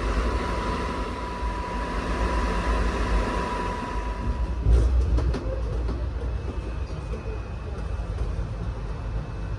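Passenger train carriage heard from inside the cabin: a steady low rumble with a thin whine for the first half, and a louder knock a little under five seconds in.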